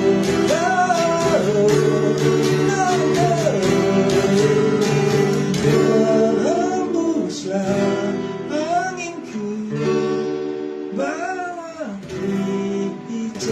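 Acoustic guitar strumming chords with a vocal melody carried over it, without clear words; the playing thins out near the end.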